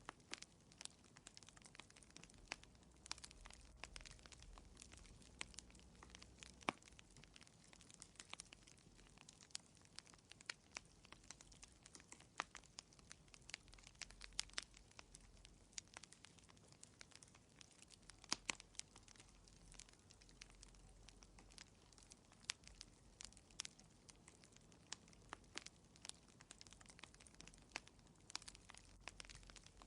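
Wood fire crackling in a fireplace, quietly: irregular sharp pops and snaps, several a second, over a faint steady hiss.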